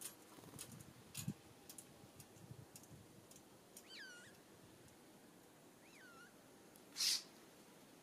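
Songbird giving two cat-like mewing calls, each sliding down and hooking back up, about four and six seconds in. Light scattered clicks and taps come in the first few seconds, and a short, loud harsh burst comes about seven seconds in.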